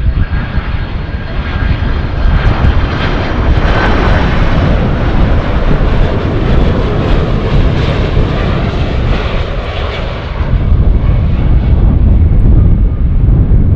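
Boeing 767 jet airliner's engines passing close by: a jet roar with a faint whine that builds, peaks and fades over several seconds. Gusty wind buffets the microphone throughout.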